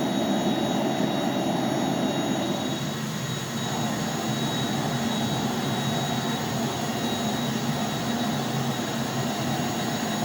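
A forge running steadily, with a constant rushing noise and no hammer blows. Part of the sound eases a little about three seconds in.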